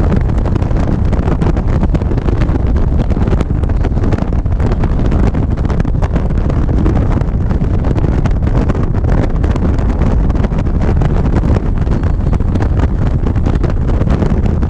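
Loud, steady wind rushing over the microphone of a motorcycle riding at speed, mixed with the bike's running and road noise.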